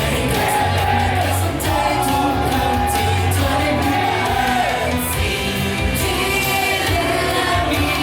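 Loud J-pop-style idol song with a sung vocal over a heavy bass beat, played in a large hall, with shouts from the audience.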